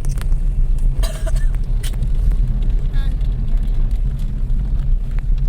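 Car cabin noise while driving: a steady low road and engine rumble, with faint voices in the background.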